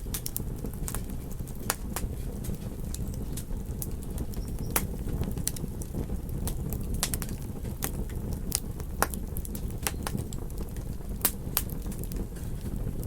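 Campfire crackling, with irregular sharp pops of burning wood, over a steady low rush.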